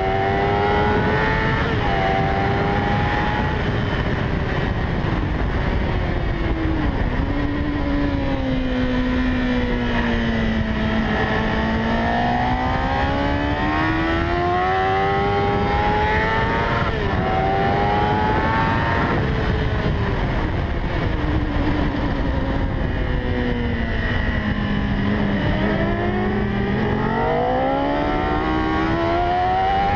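A 2001 Kawasaki Ninja 600's inline-four engine at racing revs on track: its note climbs steadily under hard acceleration, dips sharply at each upshift, and sinks slowly on engine braking into corners, over and over. A steady rush of wind runs underneath.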